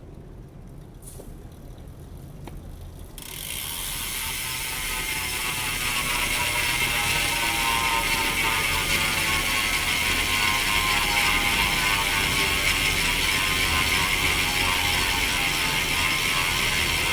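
Giant Propel Advanced Pro 0 road bike's rear freehub buzzing steadily as the rear wheel freewheels. It starts about three seconds in, after a few faint clicks, and then runs loud and even.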